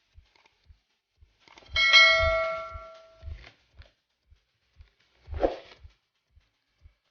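A metal object is struck and rings about two seconds in, its several tones fading over about a second. Around it come soft low thumps, and a dull knock with a rustle near the end, from handling the package.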